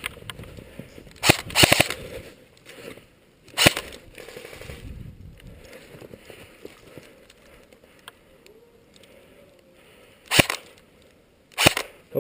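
Airsoft guns firing: a quick burst of several shots about a second in, then single shots at about four seconds, ten seconds and near the end.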